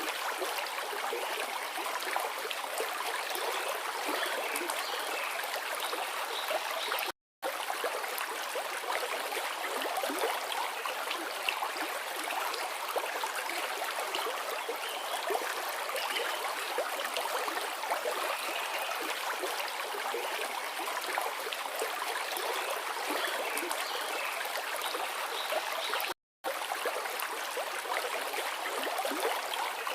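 River water flowing and babbling steadily over stones. The sound is broken by two brief gaps of silence, one about seven seconds in and one near the end.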